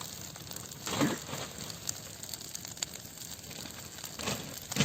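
Dry branches rustling and crackling as they are handled and piled onto a bonfire, with scattered small snaps and a louder rustle about a second in and again near the end.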